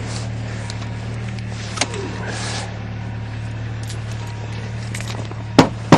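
An engine idling steadily with a low, even hum. There is a sharp knock about two seconds in and two more close together near the end.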